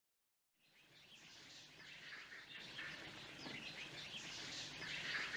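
Many birds chirping over a low background hiss, fading in from silence and growing steadily louder.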